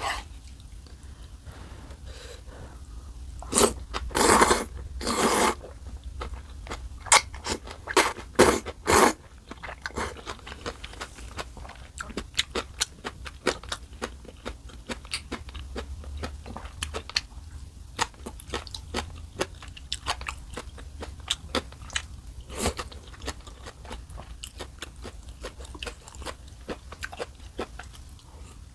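Close-miked eating: several loud, short bites or slurps about four to nine seconds in, then steady chewing with many small, crunchy clicks.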